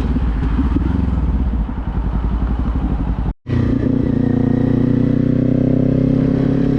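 Kawasaki motorcycle engine heard from the bike, running with a fluttering, uneven sound while riding. After a brief dropout about three and a half seconds in, the engine runs steadily at a constant low speed, as at idle.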